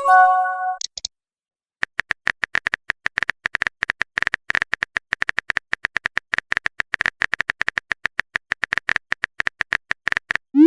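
Phone keyboard typing clicks in a quick run, several a second, with a short bright chime like a message alert just after the start and a rising swoosh, as of a message being sent, at the very end.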